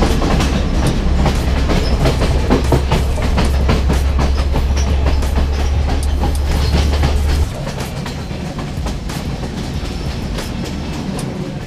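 Passenger train running along the track, heard from an open carriage doorway: wheels clattering over the rails in quick irregular clicks over a heavy low rumble. The rumble cuts off suddenly about seven seconds in and the sound gets quieter, while the clatter goes on.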